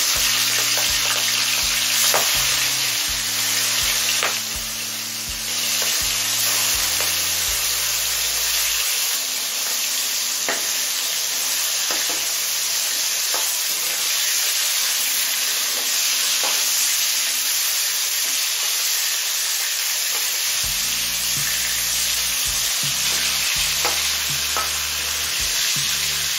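Prawns frying in hot oil in a metal kadai: a steady sizzle, with a metal spatula scraping and knocking against the pan now and then as the prawns are turned.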